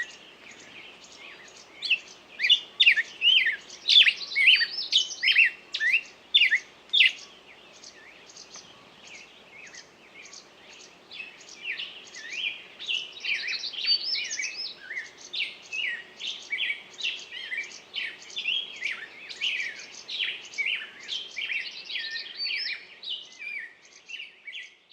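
Birdsong: a bird singing rapid runs of short, high chirps and sweeps, loud in separate phrases at first, then in a denser, quieter run of twittering from about twelve seconds in.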